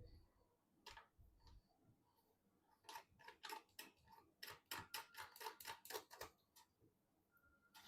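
Faint sharp clicks from PC parts being handled and fitted together during assembly: a few at first, then a quick run of about three or four a second from about three to six seconds in.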